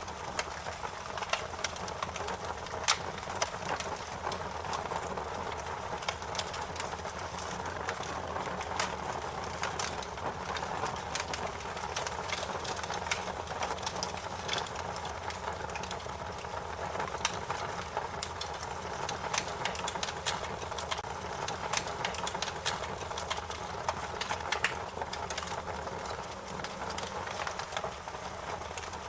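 Wood fire crackling, with frequent sharp pops and snaps scattered over a steady hiss.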